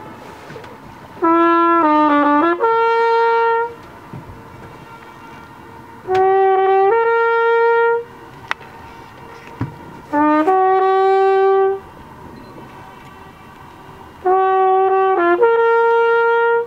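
A flugelhorn plays four short phrases of a few sustained notes each, with pauses between them, while faint tones from the echo off the lake's cliff walls linger in the gaps.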